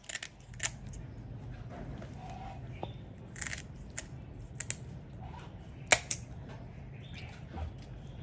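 Scattered sharp clicks and snips, a few at a time, the loudest a pair about six seconds in, over a steady low hum.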